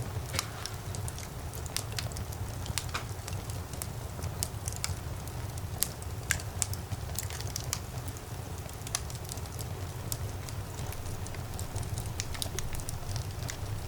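Wood fire burning in a fireplace: irregular sharp crackles and pops over a steady low rumble of the flames, with a couple of louder pops about six seconds in.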